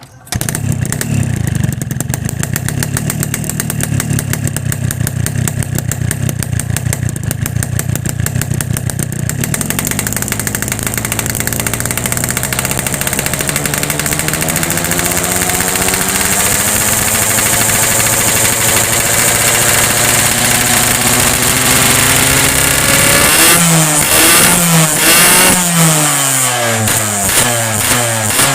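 Yamaha RX-King two-stroke single-cylinder motorcycle engine, breathing through a PK1 expansion chamber fitted with an Altech C17 silencer baffle, starts up and idles steadily. From about ten seconds in the revs climb slowly, then near the end it is revved in several quick throttle blips that rise and fall.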